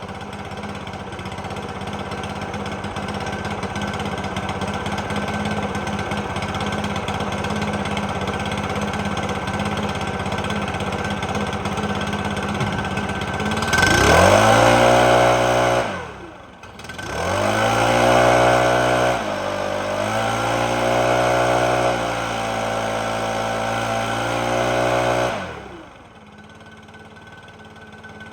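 Stihl BR600 backpack blower engine idling steadily, then throttled up about 14 seconds in, briefly let back down, and revved up again and held for several seconds before dropping back to idle near the end. The engine is being run to test its throttle response after a low-speed carburetor adjustment.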